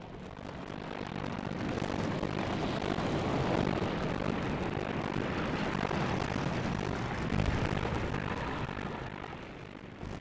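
Aircraft engine noise that swells over the first couple of seconds, holds, and fades toward the end, like aircraft passing overhead.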